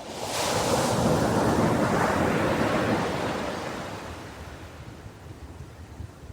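Ocean wave breaking on a beach: a rush of surf that swells within the first second, holds for about two seconds, then slowly washes away.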